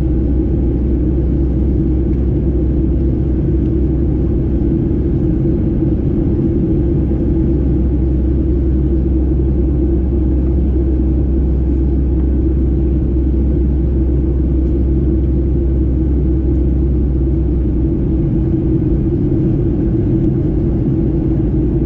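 Steady cabin drone of a Boeing 737-800 with CFM56-7B turbofans: a loud, even low rumble with a humming band over it, unchanging throughout.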